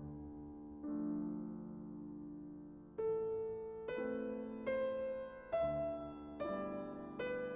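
Slow, gentle piano music: one sustained chord, then single notes struck roughly once a second, each ringing out.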